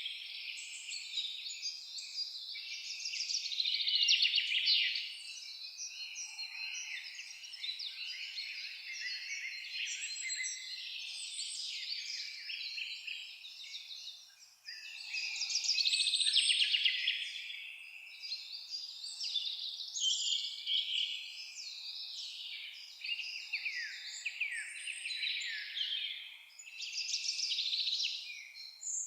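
Forest birds singing: a dense chorus of many overlapping quick, high chirps and trills, swelling louder about four seconds in and again around sixteen seconds.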